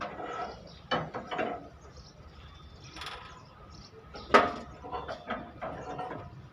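A string of irregular knocks and clatters, the sharpest and loudest one about four seconds in.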